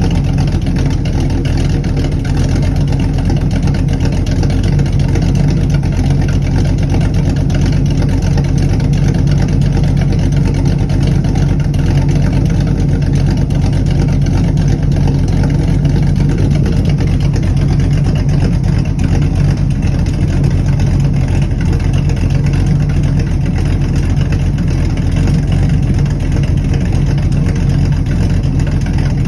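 Old-school Chevrolet Camaro V8 exhaust idling steadily, with no revving.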